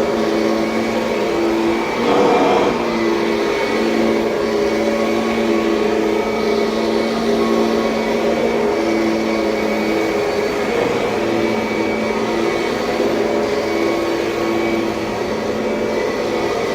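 Kirby Sentria upright vacuum cleaner running steadily, its motor hum wavering as it is worked. There is a brief louder rush about two seconds in.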